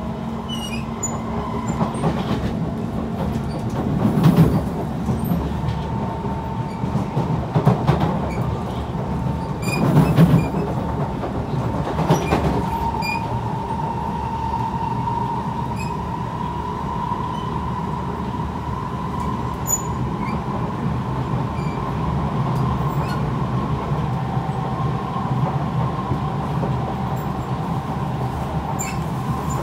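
Kawasaki C151 metro train running at speed on elevated track, heard from inside the carriage: a steady rumble of wheels on rail with a faint steady whine over it, and a few louder bumps in the first half.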